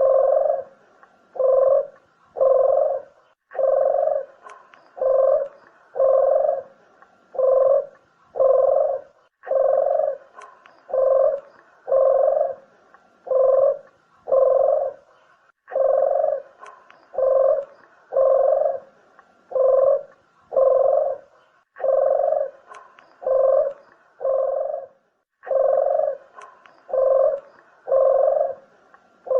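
Barbary dove (burung puter) cooing: a steady run of low coos, about one every 0.7 seconds, in phrases broken by short pauses every few seconds.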